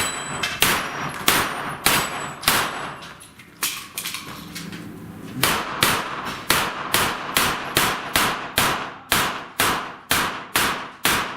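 Pistol-calibre gunfire on a steel-plate stage, with steel targets clanging when hit. Steady single shots about 0.6 s apart for the first four seconds, then a break of about a second, then a fast string of about three shots a second.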